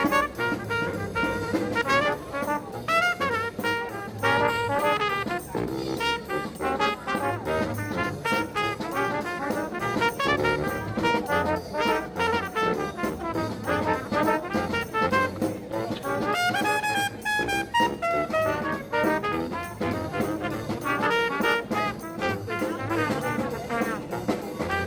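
Brass band playing upbeat jazz, with trumpets and trombones over a steady beat.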